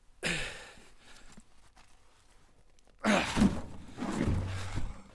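A man's heavy breath out while lifting heavy firewood rounds, fading over about a second. About three seconds in comes a louder, rough stretch of straining breath and heavy wood rounds being handled into the truck bed.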